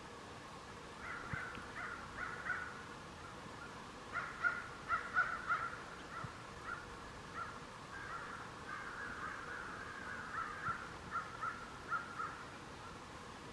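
A bird calling outdoors in runs of short, repeated notes, in three groups with pauses between them.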